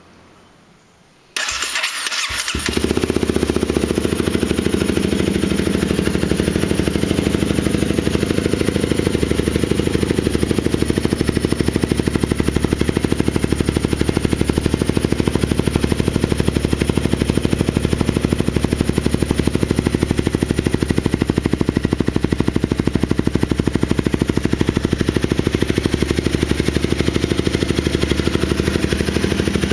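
Honda CBR250R motorcycle engine with a Yoshimura TRC aftermarket exhaust being started. It cranks briefly about a second and a half in, catches a second later, and then idles steadily and loudly through the exhaust.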